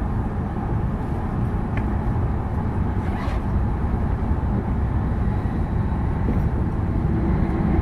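Steady running noise of a Tohoku Shinkansen train travelling at speed, heard from inside the passenger cabin, mostly a low rumble.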